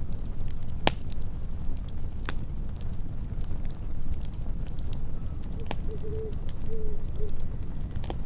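Campfire burning with a low rumble and scattered sharp crackling pops, the loudest about a second in. Crickets chirp steadily behind it, about once a second.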